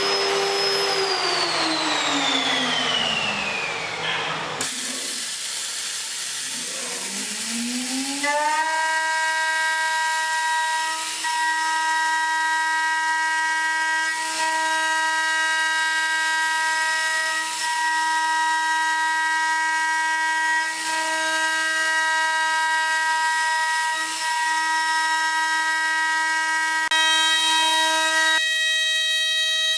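High-speed spindle of a CERTUS 69 CNC milling plotter. Its whine falls in pitch over the first few seconds, then rises again as it spins up, about eight seconds in. It then holds a steady high whine over a hiss while milling aluminium.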